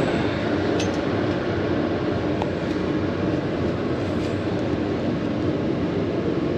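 Steady drone of a running motor, an even rushing noise with a low hum underneath.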